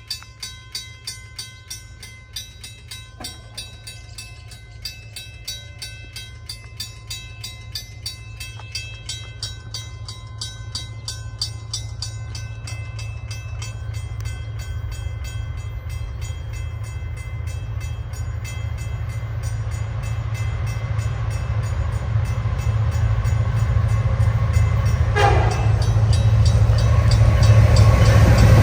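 Level crossing bell ringing in quick, even strokes while a train approaches, its rumble growing steadily louder toward the end.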